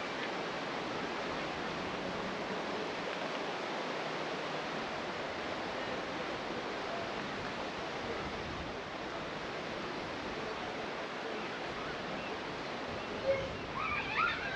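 Steady rushing water, an even hiss with no rhythm. Near the end a short sharp sound and a brief high call stand out over it.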